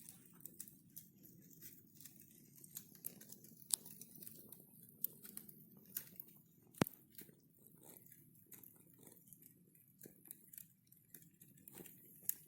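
Wood fire crackling: irregular sharp pops and snaps over a soft low rush of flames, with one loud pop about seven seconds in.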